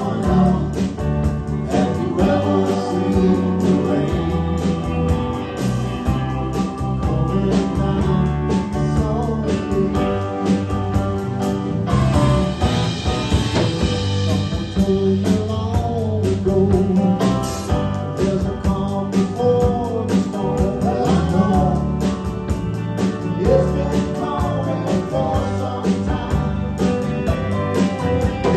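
Live rock band playing a country-rock song: drum kit keeping a steady beat under acoustic and electric guitars, bass guitar and organ.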